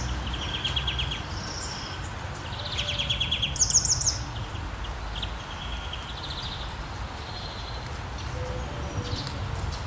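Several birds chirping and giving quick trills of rapidly repeated notes, the loudest a high trill a little before the middle, over a steady low background rumble of nature ambience.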